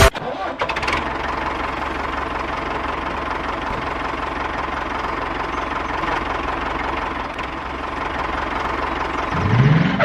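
Small motor of a DIY mini tractor or bulldozer model running steadily, with a pitch rising briefly near the end as it speeds up.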